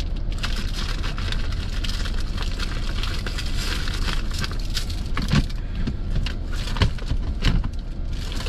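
Truck engine idling steadily, with close crinkling and clicking from handled food packaging and a few louder knocks in the second half.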